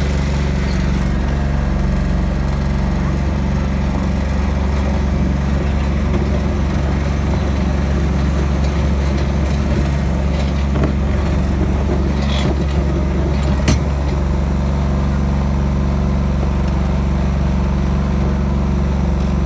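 Tractor engine running loudly at a steady speed, with no change in pitch. Two sharp clicks come a little past halfway.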